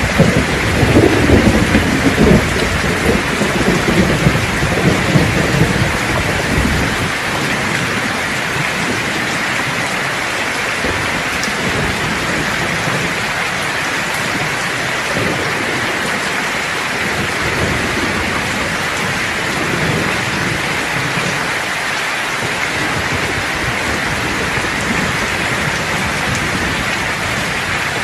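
Steady heavy rain hissing, with a roll of thunder rumbling low through the first several seconds and fading, and fainter distant rumbles later on.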